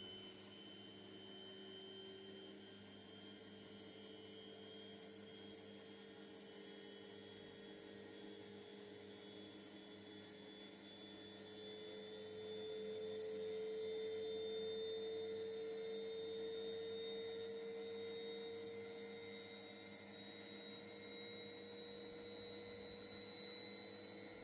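Indesit washing machine motor in diagnostic test mode, a steady whine rising slowly in pitch as the drum speeds up, louder from about halfway.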